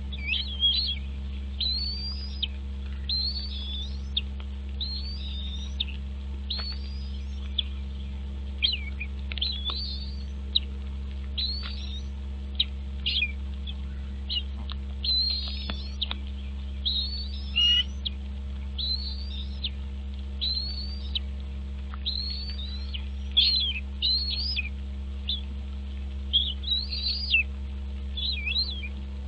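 A bird calling over and over in short, high, upward-sweeping chirps, about one a second, over a steady low hum.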